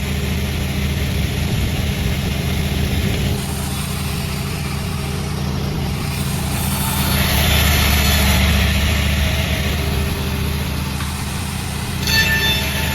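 Sawmill running steadily under its engine's hum. A louder, hissier stretch from about seven to ten seconds fits the blade cutting through wood, and a short, sharp ringing sound comes near the end.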